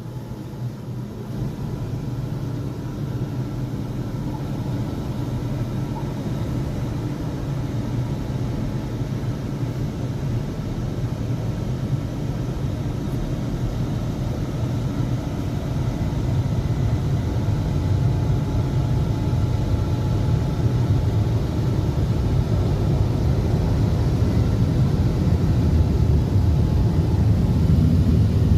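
Automatic car wash machinery switching on and running, heard from inside the car: a steady low rumble with faint steady tones that slowly grows louder.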